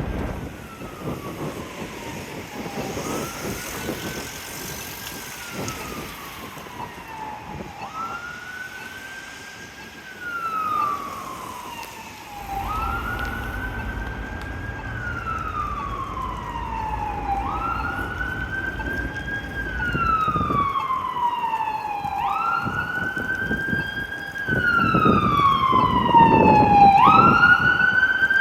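Fire engine siren wailing as the truck responds: each cycle rises quickly, holds, then falls slowly, repeating about every five seconds. It grows steadily louder as the truck approaches, with a low vehicle rumble beneath from about halfway through.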